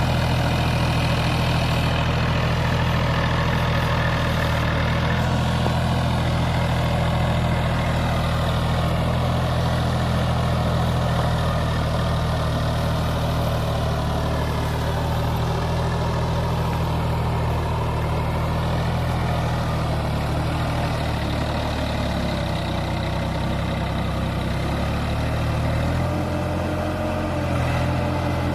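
Massey Ferguson tractor's diesel engine running at a steady speed, its note shifting slightly near the end.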